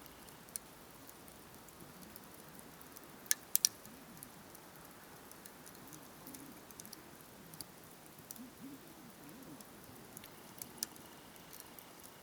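Wood fire crackling: scattered sharp pops and snaps of burning wood over a soft hiss, with three louder snaps in quick succession about three and a half seconds in.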